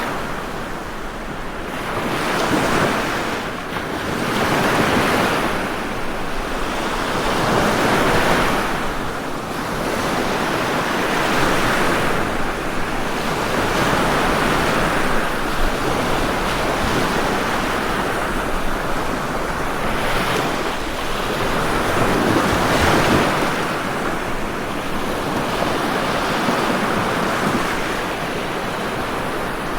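Ocean waves breaking and washing on a shore, a continuous surf that swells and eases every few seconds.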